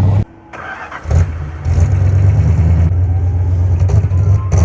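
A classic car's engine running close by with a loud, steady low rumble. It drops away sharply a quarter of a second in and returns about a second in.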